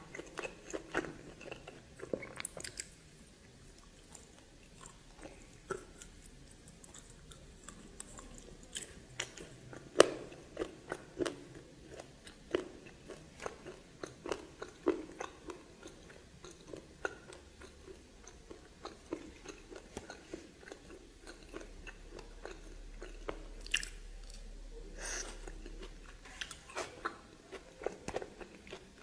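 A person chewing and biting steamed snake close to the microphone, with crunches and irregular sharp clicks and a few quieter pauses; the loudest bite comes about ten seconds in.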